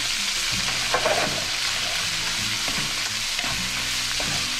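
Diced onion, bell pepper and chorizo sizzling in olive oil in a frying pan as a wooden spoon stirs them, with a few scrapes and light knocks of the spoon against the pan.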